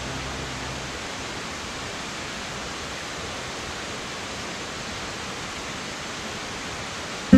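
Steady rushing water of a waterfall, an even unbroken roar. The last low tones of background music fade out about a second in.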